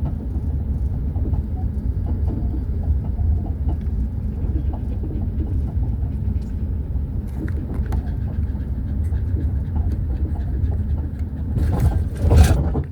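Car driving slowly, heard from inside the cabin: a steady low rumble of road and engine noise. About 12 seconds in there is one short, louder burst of noise.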